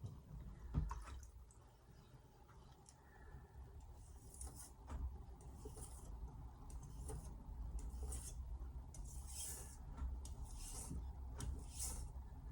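Carbon steel kitchen knife being drawn across a wet splash-and-go whetstone: short scraping strokes at about one a second, raising and chasing the burr. A single knock about a second in.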